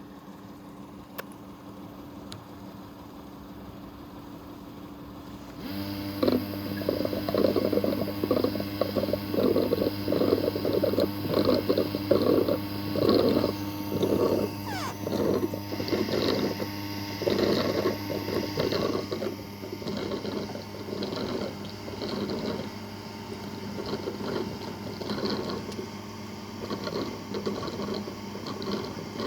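Roborock Qrevo S robot vacuum and base station start up about six seconds in, going from a faint hum to a steady low hum with rapid, irregular watery churning that eases somewhat after about twenty seconds.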